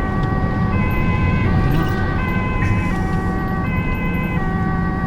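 Ambulance two-tone siren sounding continuously, switching between a high and a low note about every three-quarters of a second, over the steady low rumble of the vehicle on the road during an emergency run.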